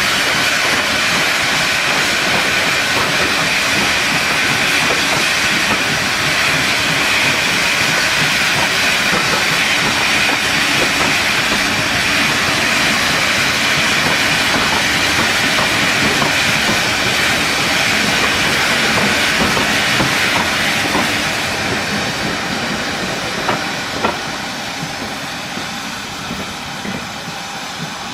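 Steam locomotive giving off a loud, steady hiss of steam. The hiss fades away over the last several seconds, with two short sharp knocks near the end.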